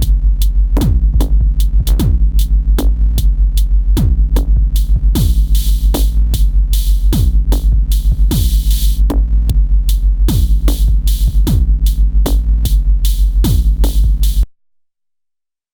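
Elektron Syntakt drum machine playing an electronic drum pattern: deep kicks that drop in pitch, quick hi-hat ticks and a steady low bass tone. A bright hissing cymbal wash joins about five seconds in and fades by about nine seconds, and the whole pattern cuts off suddenly about a second before the end.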